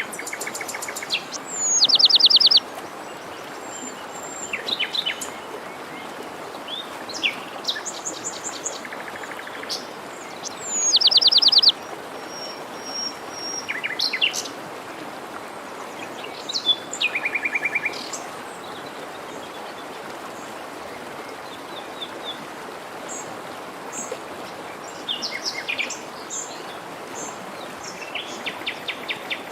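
Songbirds calling and singing over the steady rush of a forest stream. Two loud, fast trills stand out, one about two seconds in and another about eleven seconds in, among many shorter chirps and whistles.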